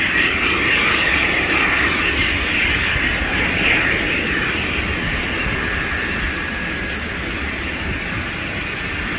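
Boeing 747-251B freighter's jet engines, a steady rushing roar that slowly fades.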